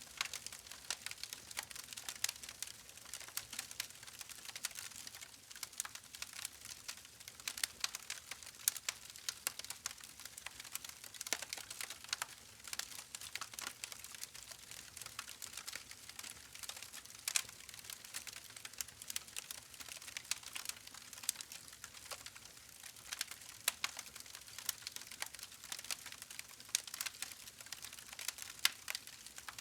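Campfire burning with a steady soft hiss and frequent irregular crackles and pops of the wood.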